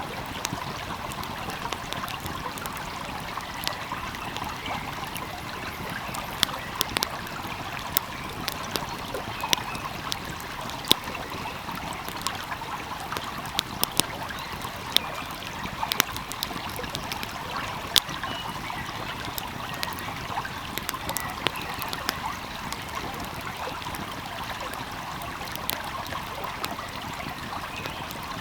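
A wood fire crackling, with sharp pops at irregular intervals, over the steady rush of a flowing stream.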